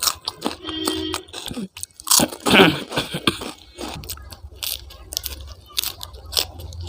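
Close-miked eating: a person biting into and chewing crunchy food, with many short, sharp crunches.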